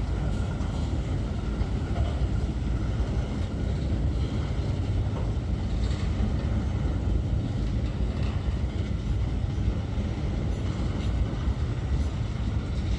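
Empty grain freight train rolling by, a steady low rumble of wheels on the rails with a few faint ticks.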